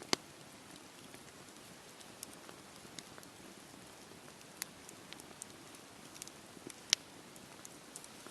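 Wood fire crackling in a fireplace: a steady soft hiss with scattered sharp pops, two louder ones just after the start and about seven seconds in.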